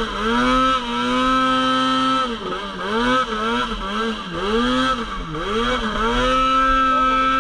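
Polaris RMK Pro 800 snowmobile's two-stroke engine under throttle in deep snow: held at steady revs, then revved up and down several times in quick blips, then held steady again near the end.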